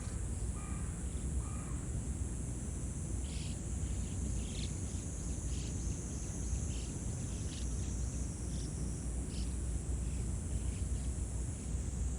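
Steady high-pitched insect chorus of crickets, with short chirps coming about once a second from about three seconds in, over a low outdoor rumble.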